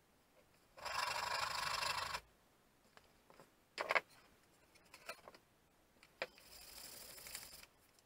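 Sandpaper scrubbing on an old crosscut saw's handle: a loud stretch of rubbing about a second in, a few light knocks, then a quieter stretch of rubbing near the end.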